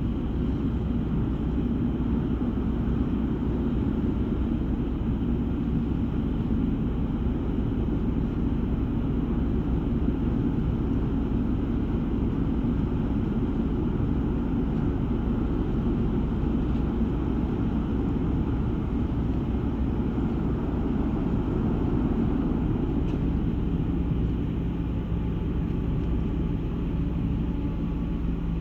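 Ferry Taiko's engines running with a steady low rumble as the ship leaves port.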